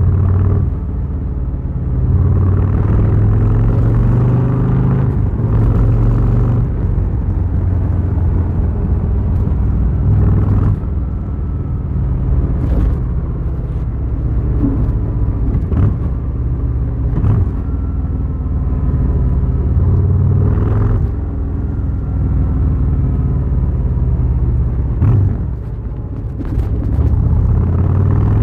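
Harley-Davidson Fat Boy's V-twin engine running under way, its deep note rising and falling with the throttle, with several brief dips in the pull through the ride.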